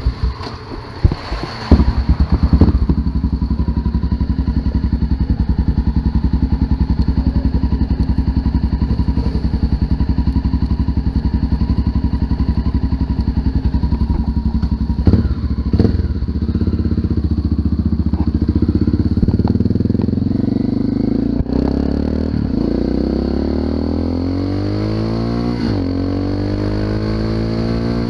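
Honda FMX 650 single-cylinder engine running through an Arrow aftermarket exhaust: a few knocks in the first couple of seconds, then a steady, rapid idle beat. In the last third the engine speed rises and falls several times.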